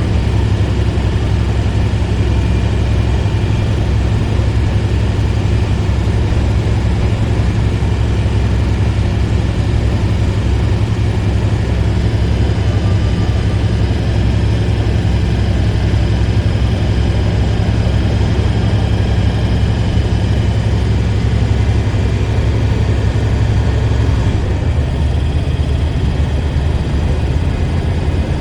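Hotshot truck's engine running steadily with a low drone, its low pitch shifting slightly about 25 seconds in.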